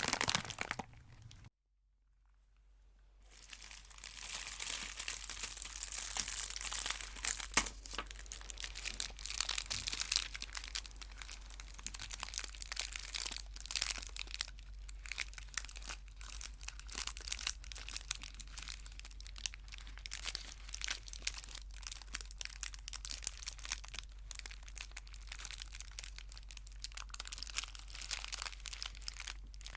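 Chocolate wrappers crinkling and crackling as they are handled and unwrapped, with many small sharp crackles. It breaks off briefly in near silence about a second and a half in, then resumes and runs on as a dense crinkle.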